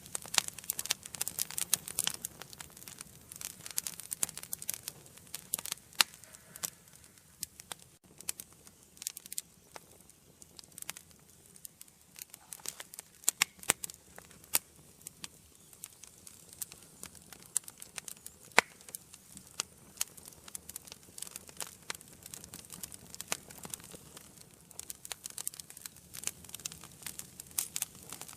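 Wood fire burning in a fireplace: irregular crackles and sharp pops over a soft low hiss, with the crackling thinning out midway and getting busier again near the end.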